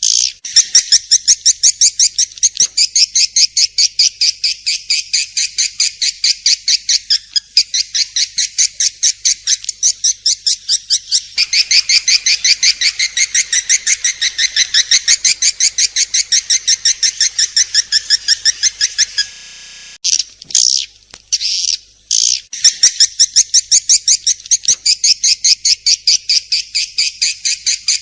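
Swiftlet calls: a fast, high chittering of evenly repeated chirps, several a second, running on with a short break about two-thirds of the way through.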